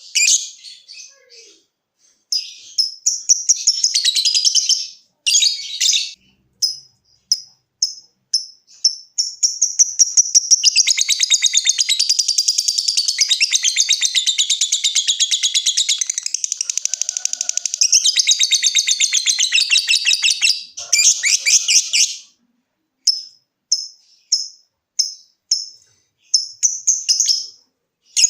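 Lovebird singing: a run of short, sharp ticking chirps ('ngetik'), then one long unbroken rapid chattering trill ('ngekek') lasting about thirteen seconds, then short chirps again near the end.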